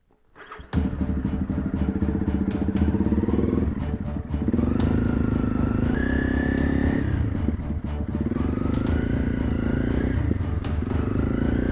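Honda CRF300 Rally's single-cylinder four-stroke engine accelerating through the gears while riding: it starts suddenly after a moment of quiet, and its pitch climbs and drops back at a gear change about three times.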